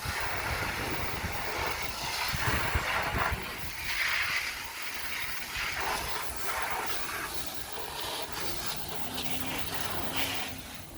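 Hissing noise of car washing, coming in uneven bursts about a second long. A low steady hum joins in near the end.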